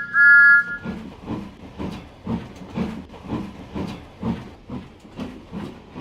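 Steam locomotive whistle giving a short double blast, then the engine puffing steadily at about two chuffs a second.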